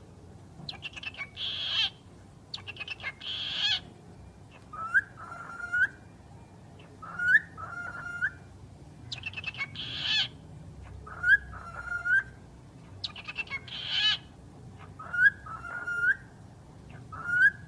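Pet talking bird vocalizing in a repeating sequence: short harsh, buzzy calls alternate with clear two-part rising whistles, the pattern coming round several times.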